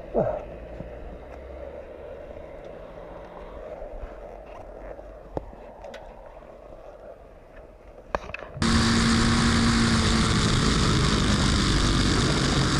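A quiet stretch of motor and road noise with a short falling sound at the start and a few sharp clicks. About two-thirds of the way in it cuts abruptly to a motorcycle running steadily, heard loud with heavy wind rush on the microphone.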